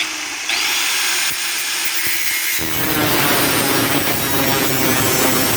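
Angle grinder with a cutoff wheel spinning up with a rising whine, then cutting into a steel bed-frame rail from about two and a half seconds in, the noise growing fuller and steady as the wheel bites.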